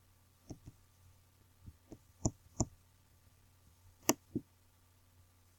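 Computer mouse clicking about eight times at an irregular pace, some clicks in quick pairs, the loudest about four seconds in.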